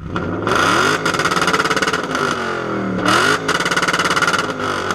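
A car engine revved hard twice. Each time its pitch climbs fast and is held high with a rapid, even pulsing, then drops back between the two revs.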